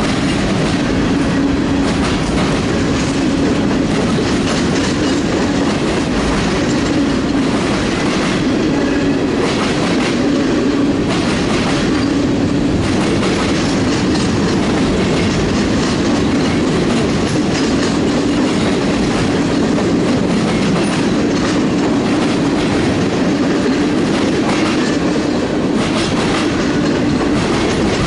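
Norfolk Southern manifest freight train's cars rolling past steadily, steel wheels clicking over rail joints in a continuous run of clacks under a steady loud rolling noise.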